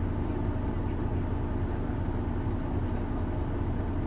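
Isuzu Erga city bus's six-cylinder diesel engine running steadily, heard from inside the passenger cabin. This bus is known for a distinctive abnormal engine noise.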